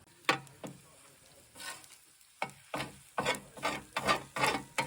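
A utensil stirring and scraping food in a cooking pan, in a series of short irregular strokes that come faster in the second half.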